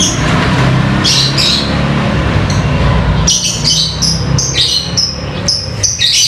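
Birds chirping and squawking in a rapid series of short, high calls, over a steady low hum.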